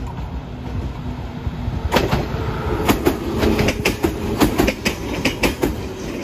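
Toyama Chiho Railway electric train running on the rails: a steady rumble, with sharp clickety-clack of wheels over rail joints coming thick and fast from about two seconds in.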